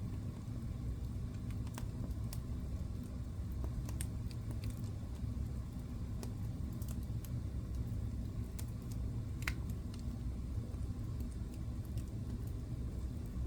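Wood fire burning in a fireplace: a steady low rumble with sharp crackles and pops scattered irregularly through it, one louder pop about nine and a half seconds in.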